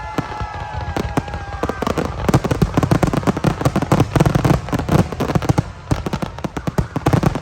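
Fireworks going off in rapid crackling pops, with a steady high tone that falls slightly over the first couple of seconds.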